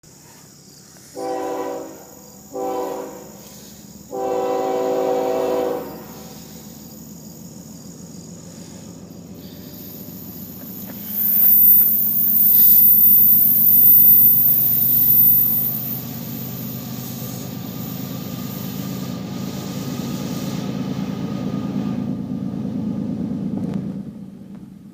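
A CSX diesel freight locomotive's air horn gives two short blasts and one longer blast. The train then passes: a loud rush of locomotive and wheel noise with a high squeal, followed by the steady rumble of freight cars rolling by, which fades near the end.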